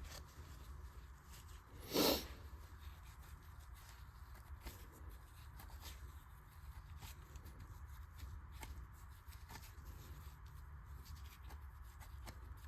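Faint clicks and taps of hand tools working on engine parts, with one louder clunk about two seconds in.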